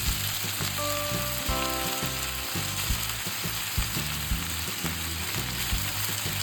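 Marinated chicken thigh pieces sizzling steadily as they fry in hot oil in a pan over medium-high heat, with a few light knocks scattered through.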